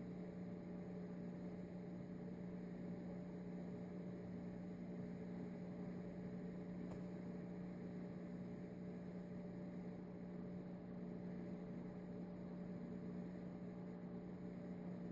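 Steady low electrical hum, one unchanging drone with nothing over it.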